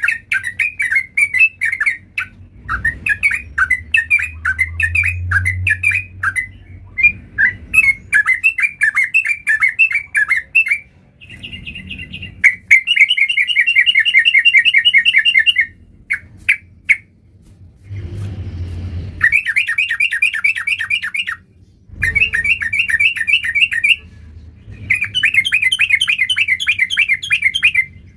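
Yellow-vented bulbul (trucukan) singing: loud, fast bubbling phrases of quick notes, each a second or three long, repeated with short pauses between them.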